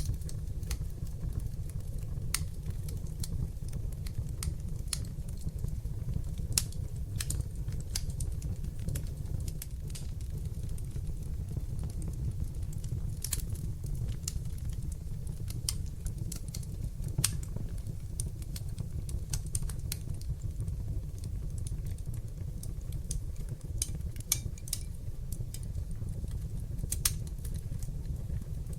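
Fire burning in a fireplace: a steady low rumble of flames under irregular sharp crackles and pops, with a few louder pops scattered through.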